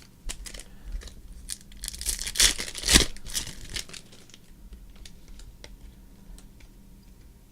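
Trading-card pack wrapper being torn open and crinkled, loudest about two to three and a half seconds in, then a few faint light clicks as the handling quiets.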